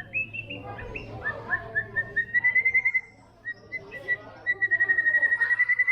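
White-rumped shama singing: a string of short falling whistles, then two fast trills of rapidly repeated clear notes on one pitch, the second running to the end.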